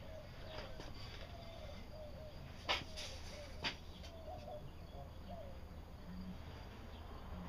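Two sharp knocks about a second apart, a few seconds in, over a faint steady hum and a run of short, repeated chirping calls.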